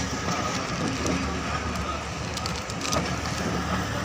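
Passenger train running, heard from inside a carriage: a steady rumble and rattle, with a few sharp clicks between about two and a half and three seconds in.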